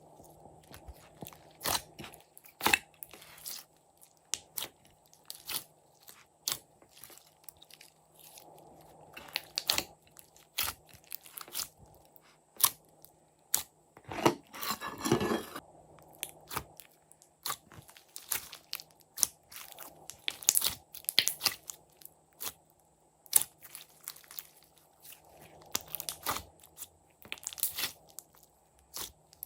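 Glossy slime being mixed and pressed by hand: scattered sharp clicks and crunches, with one longer crunching squish lasting about a second midway through.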